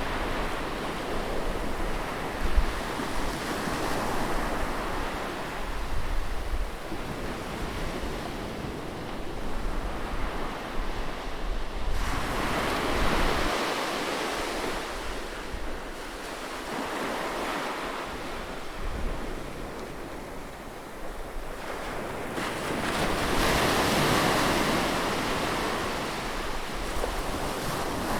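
Ocean surf on a sandy beach: waves breaking and washing up the shore in a steady hiss that swells and ebbs, with two bigger surges, one about halfway and one near the end. Wind rumbles on the microphone underneath.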